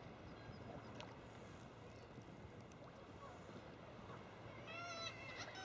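Faint wash of water, then about five seconds in a seabird starts calling, a run of short, repeated calls.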